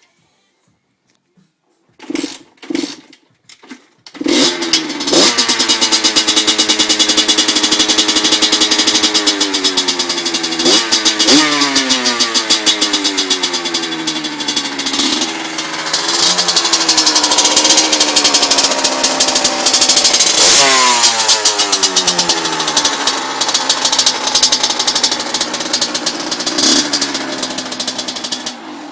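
Small 80cc motorcycle engine with a KTM SXS aftermarket exhaust: a few short catches, then it starts about four seconds in and runs loudly, blipped up several times with the pitch falling back to idle after each rev.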